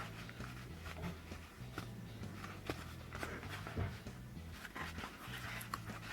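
Faint low hum with scattered light clicks and taps.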